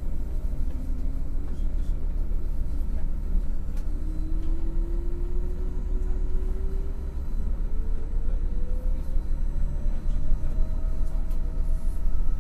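MAN NL 253 Hybrid city bus driving, heard on board: a steady low rumble, with a thin whine that starts about four seconds in and rises slowly and evenly in pitch for the rest of the time.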